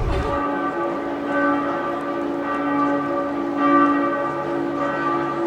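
Church bells ringing, several tones of different pitch struck in turn and ringing on over one another.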